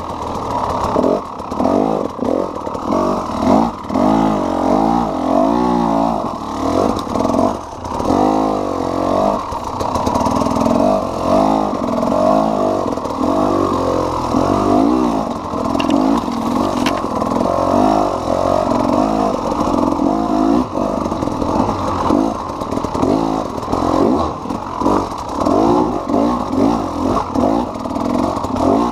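KTM EXC 300's single-cylinder two-stroke engine being ridden hard, its note rising and falling over and over with the throttle.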